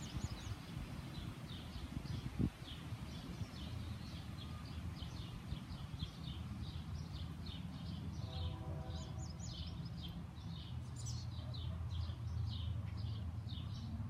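Small backyard birds chirping continuously, several short high chirps a second, over a steady low rumble.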